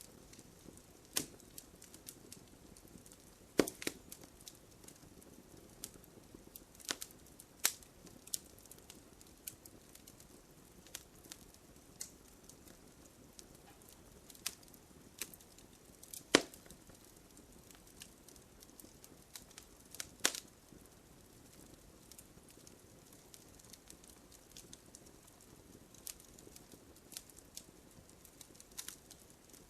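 Wood fire crackling: scattered sharp pops and snaps over a soft low rush, the loudest pops about 4, 16 and 20 seconds in.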